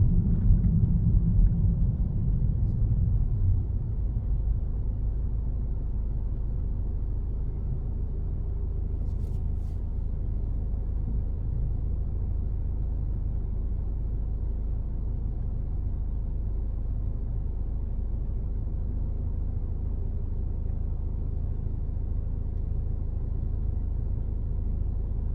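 Car driving, heard from the cabin: low road rumble dies down over the first few seconds as the car slows, leaving a steady low hum. A brief faint tick sounds about nine seconds in.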